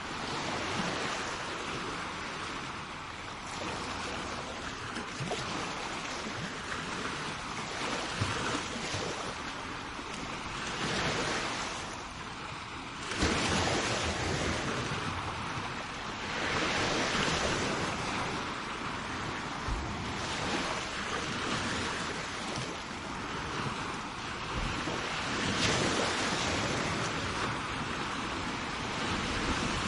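Sea waves washing onto the shore, a steady surf hiss that swells and fades every few seconds, with one stronger wave about a third of the way in. Wind noise on the microphone runs under it.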